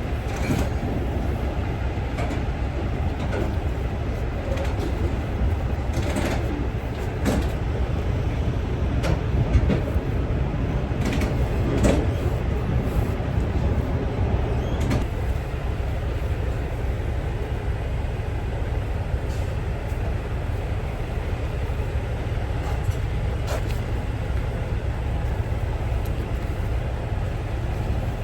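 A truck's diesel engine running steadily, with scattered short metallic clanks and rattles now and then, loudest about a third of the way in.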